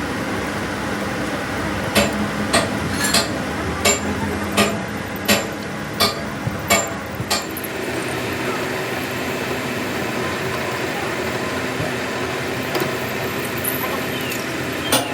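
Hammer blows on metal: about ten sharp, ringing strikes at an even pace, roughly one every two-thirds of a second, then one more near the end, over a steady workshop hum.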